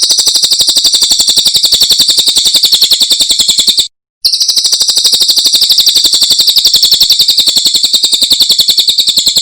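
A cililin singing a long, very rapid trill of repeated high notes. The trill is loud and comes in two runs, broken by a short pause about four seconds in.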